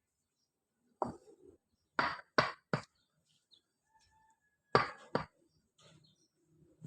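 Concrete paving blocks being knocked and tapped during laying: six sharp, hard clinking strikes, one at about a second in, a quick run of three soon after, and two more near the middle.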